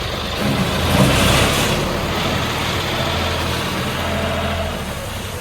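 Tractor engine running, swelling louder about a second in and then settling back to a steady rumble.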